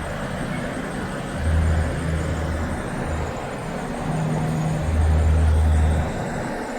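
Road traffic passing, with the low rumble of heavy vehicles swelling about a second and a half in and again from about four to six seconds in; no horn is sounded.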